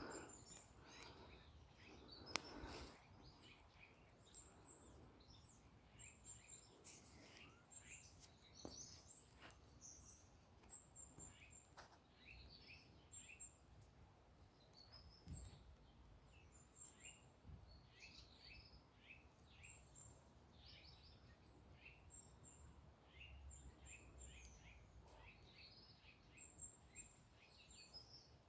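Faint birdsong: several birds chirping and trilling in short, high notes, with one sharp click a couple of seconds in.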